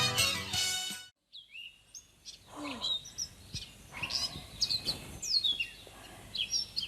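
Music cuts off about a second in, then birds chirp: scattered short calls and quick falling whistles, repeated over the rest of the stretch.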